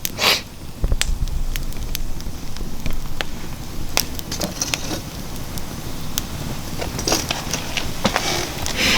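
Wood fire crackling in a fire pit, with frequent sharp pops and snaps over a steady low hiss of burning. There is a brief rush of noise just after the start.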